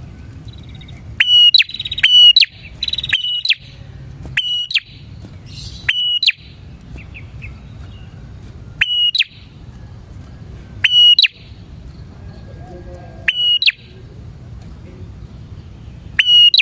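Prinia (prenjak) calling: about ten loud, sharp notes, each a short steady whistle that flicks sharply upward at its end, repeated every one to two seconds over a steady low hum.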